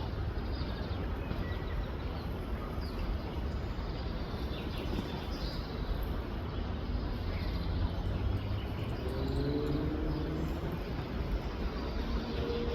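Steady outdoor background rumble with faint, scattered chirps of small birds, and a faint pitched hum rising briefly about nine seconds in.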